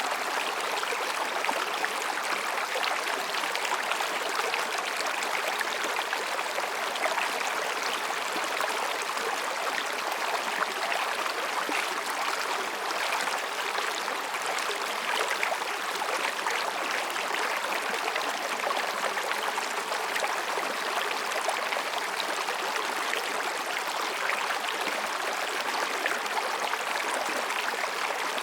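Mountain stream flowing over and between rocks: a steady, even rushing and babbling of water.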